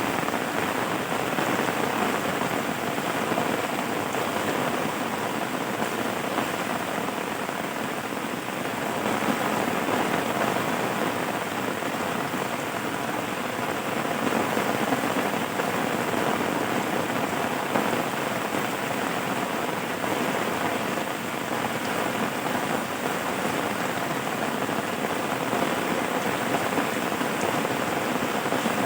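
Steady rain falling, an even dense patter without breaks.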